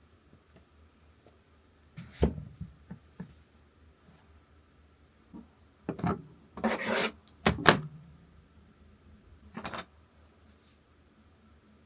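Objects being handled on a hard surface: a few scattered knocks and short bouts of rubbing and rustling, with quiet gaps between them.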